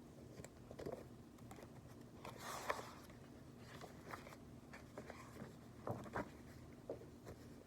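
Faint handling of a picture book: a short paper rustle about two and a half seconds in, typical of a page being turned, among scattered light taps and clicks over a low room hum.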